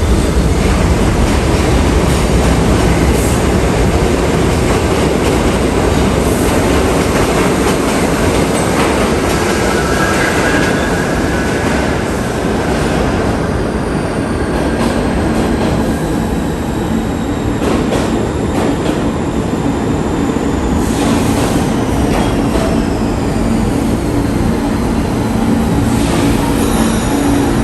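New York City subway train running on the track with a continuous loud rumble. The wheels squeal briefly about ten seconds in, and in the second half a thin high whine slowly falls in pitch.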